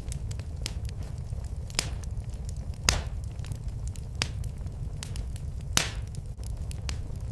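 Wood fire burning in a fireplace, a steady low rumble with irregular sharp crackles and pops, the loudest about three seconds in and again just before six seconds.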